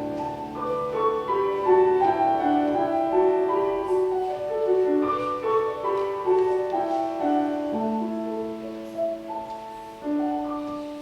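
Piano playing a slow melodic passage of held notes, dying away over the last few seconds.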